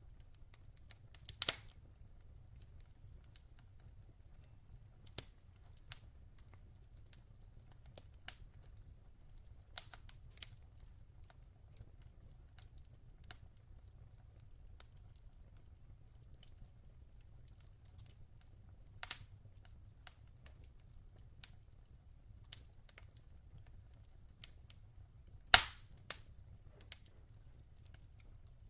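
Log fire crackling: a low steady rumble with irregular sharp snaps and pops, the loudest about a second in, around 19 seconds and near the end.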